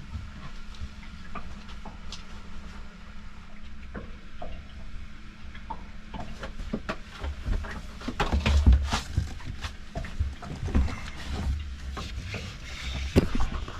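Someone rummaging through gear: irregular clicks, knocks and rustling of objects being moved and handled, getting busier and louder from about halfway through.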